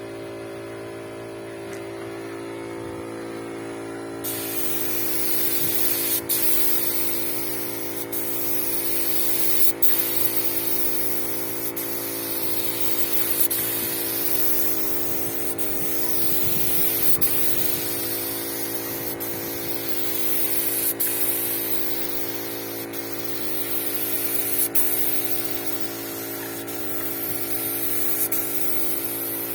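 Paint spray gun hissing in repeated passes, the spray swelling and fading every couple of seconds as a finish coat goes on, starting about four seconds in. Under it runs a steady electrical hum.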